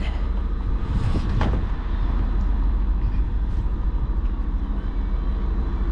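Train standing at the platform with its engine idling, a steady low rumble.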